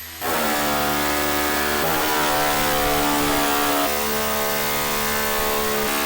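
Pneumatic air chisel hammering into the sheet-steel roof of a Ford Excursion: a loud, continuous, rapid buzzing chatter at a steady pitch that shifts slightly twice as the tool bites.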